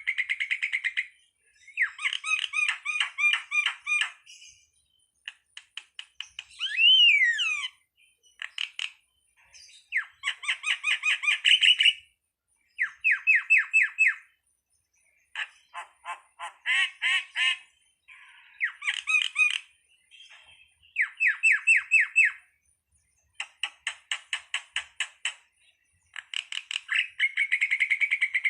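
Jalak (starling) song: phrases of rapid, evenly repeated chattering notes, each lasting one to two seconds, with short silent gaps between them. About seven seconds in comes one whistle that rises and then falls.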